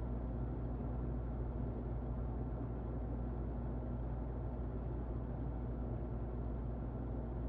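Muffled electric fan running steadily: an even, low whooshing rush with a faint steady hum underneath.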